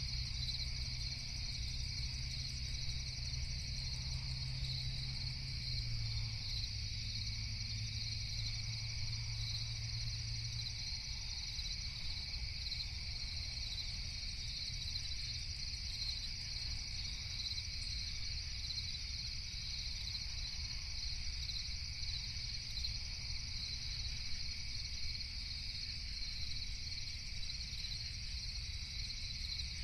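Crickets chirping steadily in a continuous night chorus over a low rumble. A low hum beneath them fades out about ten seconds in.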